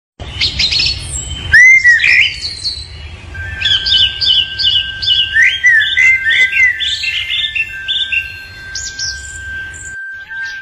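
Birds chirping and calling in quick, varied phrases, loudest about one and a half seconds in, with a long steady whistled tone joining from about three and a half seconds on, over a low rumble.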